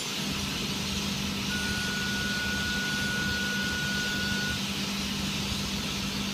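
Electric suburban train (Sydney Trains Y set) standing at the platform, giving a steady low hum and an airy hiss from its equipment. A single steady high tone sounds for about three seconds, starting about a second and a half in.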